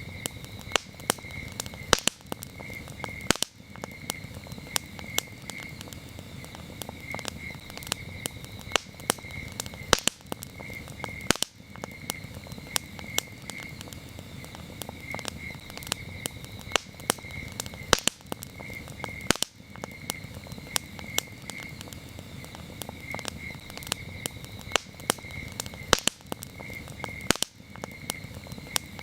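Campfire crackling with frequent sharp pops, over a steady pulsing chirp of crickets.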